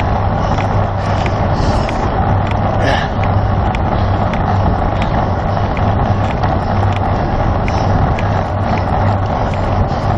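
Steady rush of wind on the microphone of a camera on a road bicycle riding at race speed, with a low hum and a faint regular ticking about twice a second.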